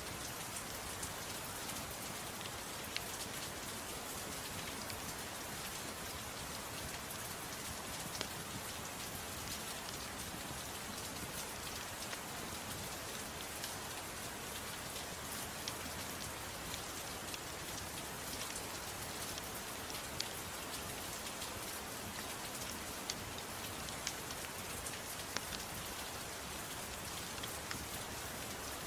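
Steady gentle rain mixed with a crackling fireplace: an even hiss of rain with a few sharp pops scattered through.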